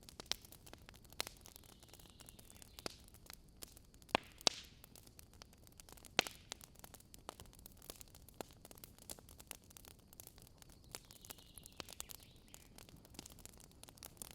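Wood campfire crackling, with irregular sharp pops of burning wood, the loudest about four and six seconds in, and a faint hiss twice.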